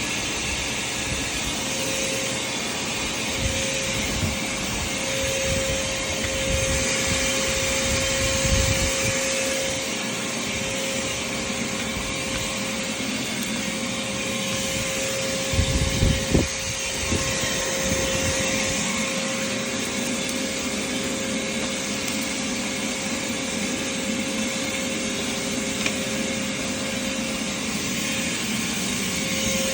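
Vacuum cleaner running steadily with a constant whine, with a few low bumps about halfway through.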